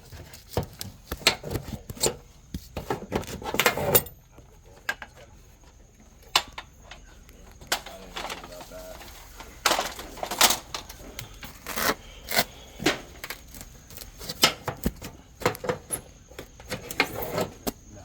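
Metal tools working on aluminum siding and an aluminum corner piece as its nails are pried out: irregular clicks, taps and scrapes of metal on thin aluminum, with a quieter stretch of a few seconds in the middle.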